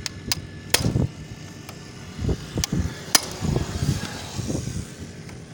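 Metal tools working on a 70cc motorcycle's engine casing during a clutch plate change: about five sharp metallic clicks at irregular intervals, with duller knocks between them.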